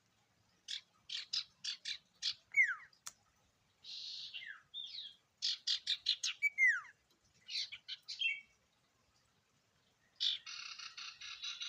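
Common iora (sirtu) singing: quick runs of short chirps broken by falling whistled notes, then a fast, rattling chatter starting about ten seconds in.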